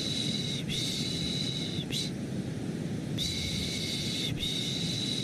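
Rhythmic shushing, a long 'shh' about a second each, repeated in runs with a pause of about a second midway. It plays over continuous low white noise, as a baby-soothing sound.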